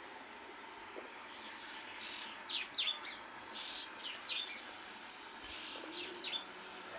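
A bird chirping in quick groups of short, downward-sweeping notes, starting about two seconds in, over a steady background hiss.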